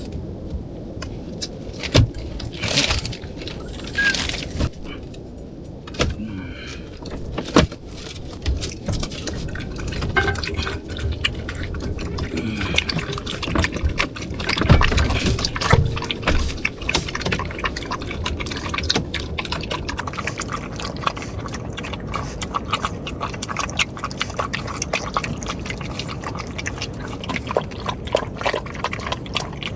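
Water splashing and sloshing with irregular knocks. From about twenty seconds in, a dense patter of small ticks like rain comes in.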